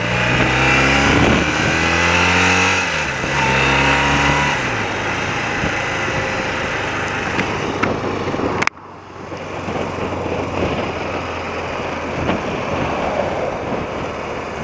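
A 30-year-old BMW motorcycle's engine pulling away under a steady rushing noise. Its pitch rises for a couple of seconds and then falls, and the engine is still cold, not yet warmed up. About nine seconds in the sound cuts off abruptly, and after that mostly the rushing riding noise is left, with the engine faint.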